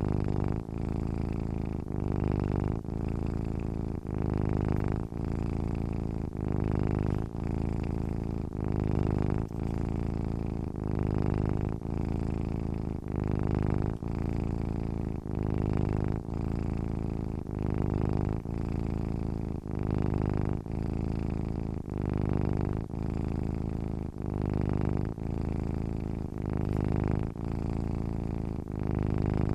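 Domestic cat purring steadily while asleep, the purr pulsing about once a second.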